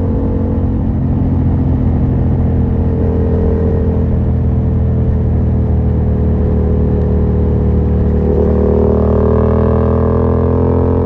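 A 2023 Yamaha MT-07's parallel-twin engine through a Yoshimura R77 exhaust with the dB killer removed, running at a steady cruise. Its pitch rises as the bike accelerates in the last few seconds.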